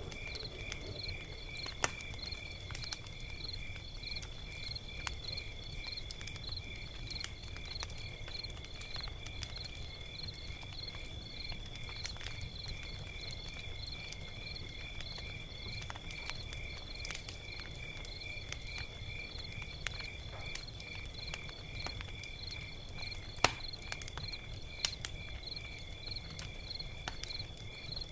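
Log fire crackling with scattered sharp pops, one about two seconds in and a louder one near the end, over a low steady rumble. Crickets chirp in an even, steady rhythm behind the fire.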